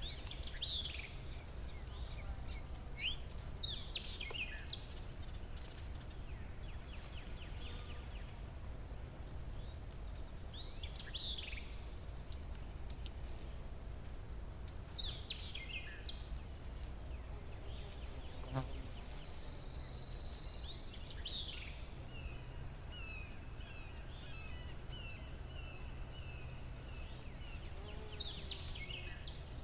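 Forest ambience: birds giving short downward-sweeping calls every few seconds, with one trilled phrase a little after midway. A steady high insect drone runs under them over a low background rumble, and a single sharp click sounds a bit past halfway.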